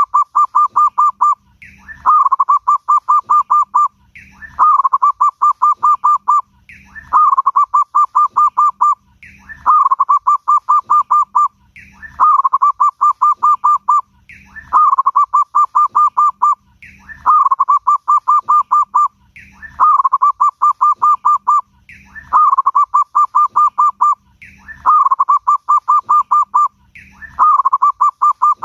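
Zebra dove (perkutut) cooing in full song: a short rising note followed by a quick run of staccato coos, the phrase repeated about every two and a half seconds.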